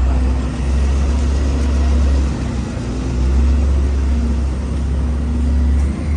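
2006 New Flyer C40LFR transit bus's CNG engine running with a steady low rumble.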